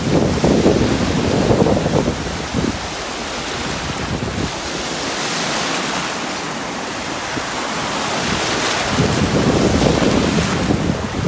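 Ocean waves breaking and washing on the shore, with wind buffeting the microphone; the wind rumble is heaviest at the start and again near the end, and the hiss of the surf stands out in the calmer middle.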